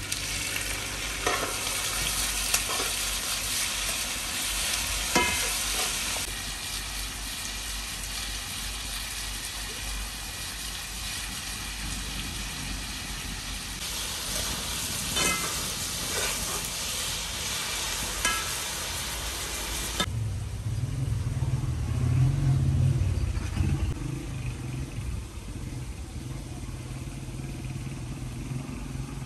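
Food frying in a hot pan: a steady sizzle with a few sharp pops. About two-thirds of the way through it cuts off suddenly, and a low rumbling hum follows.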